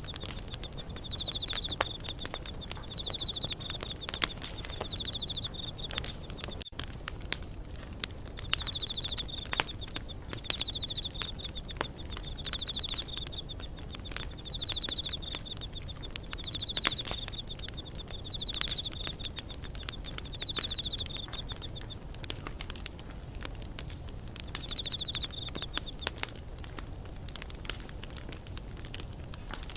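Wood campfire crackling, with many sharp pops, over a steady low rush. A high, rapidly pulsing trill repeats every second or two and stops near the end.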